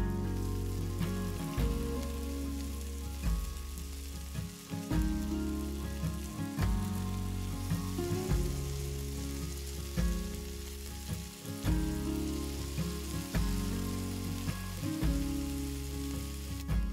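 Steak and halved Brussels sprouts sizzling in oil in two frying pans on portable gas camp stoves, under background music whose low notes change about every second and a half.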